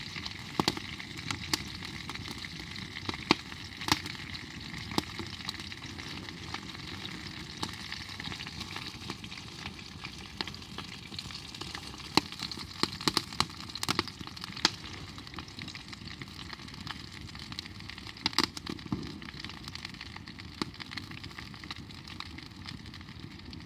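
Campfire crackling: a steady hiss with sharp pops and snaps at irregular intervals, a few of them louder.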